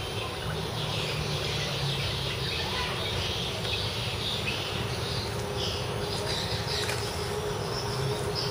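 Birds chirping repeatedly over a steady low rumble. A faint steady hum comes in a little past halfway.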